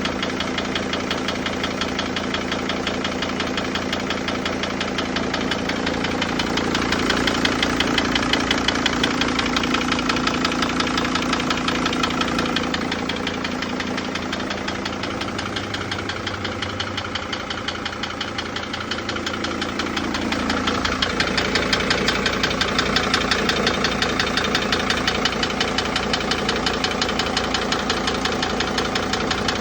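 Mercedes-Benz Sprinter T1N's OM647 2.7-litre five-cylinder diesel engine running with a steady, rhythmic knock, swelling a little in loudness twice. The owner cannot tell whether the knock is a faulty injector or a larger internal problem; metal flakes were found in the oil.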